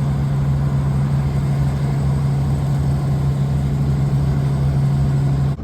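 Steady low hum and rumble of a Northern passenger train, heard from inside the carriage. It cuts off suddenly near the end.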